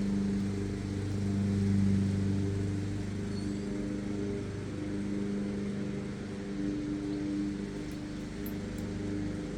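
Lawn mower engine running steadily with a low hum, its level swelling and fading, loudest about two seconds in.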